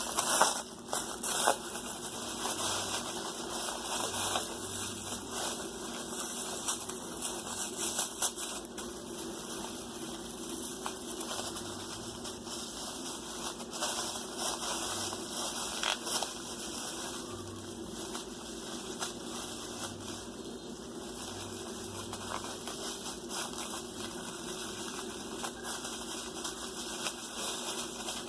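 A small plastic trash bag stuffed with cotton crinkling and crackling as it is squeezed and handled, with scattered clicks over a steady low hum.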